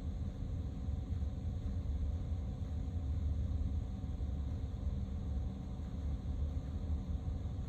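Steady low rumble of a car driving, with road and engine noise and no sudden events.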